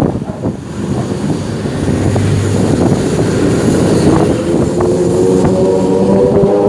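Motorcycle engine running on the road over rushing road noise. Its pitch rises steadily over the last few seconds as it accelerates.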